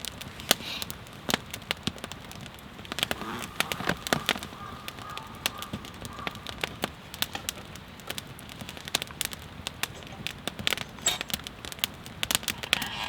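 Wood fire crackling, with frequent sharp, irregular pops.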